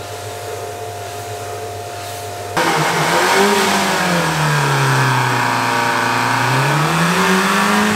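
Toyota KE70 Corolla's engine running as the car is driven: a steady hum at first, then, about two and a half seconds in, a louder engine note that sinks in pitch and climbs back up again.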